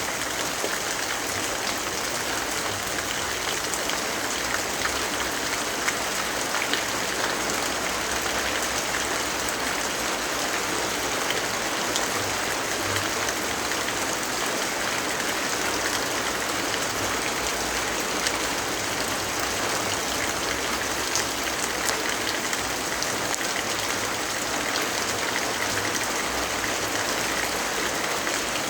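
Steady rainfall: an even, unbroken hiss of rain with a few faint sharp ticks scattered through it.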